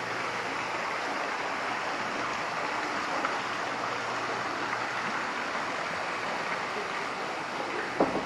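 Steady rush of running water. A faint low hum sits under it for the first few seconds, and there is a single short knock near the end.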